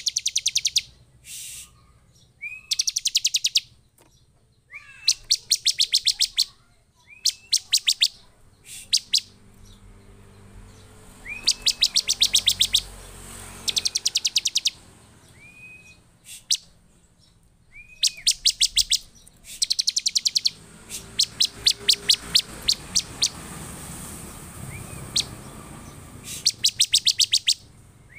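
Bar-winged prinia (ciblek) calling excitedly and persistently, in the agitated state that keepers use to set other ciblek calling. It gives about a dozen fast trills of sharp, high notes, each about a second long. Many open with a short rising note, and they come every second or two.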